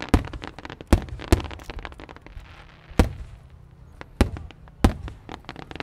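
Fireworks going off: about six loud, sharp bangs roughly a second apart, with smaller crackling pops between them.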